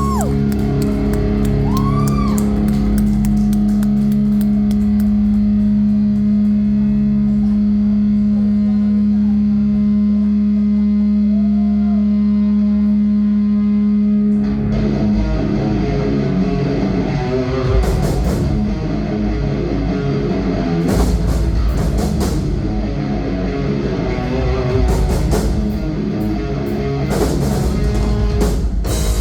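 Live rock band: a held guitar note drones steadily for about fourteen seconds, then the drums and the full band come in.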